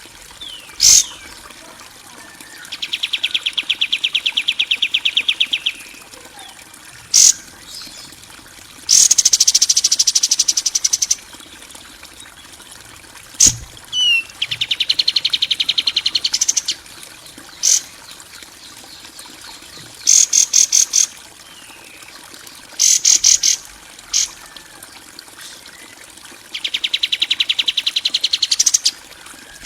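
Bird masteran recording of harsh, rapid trilling calls: bursts of fast rattling pulses lasting one to three seconds, some rising in pitch at the end, with single sharp chirps and short pauses between them.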